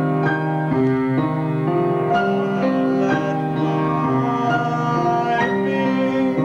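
Instrumental accompaniment of the mini-opera: chords on a keyboard instrument, struck about twice a second, with notes held between the strokes.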